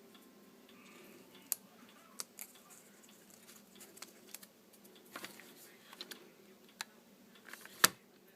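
Faint, scattered clicks and taps of paper embellishments and small crafting tools being handled and set down on a desk, with one sharper tap near the end.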